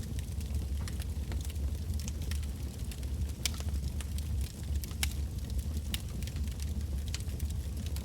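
Wood bonfire burning, with a steady low rumble of flame and scattered sharp crackles and pops of burning logs, a few louder pops spread through it.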